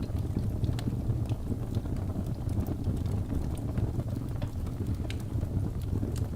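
Birch logs burning in a fireplace: a steady low rush of flame with scattered sharp crackles and pops throughout.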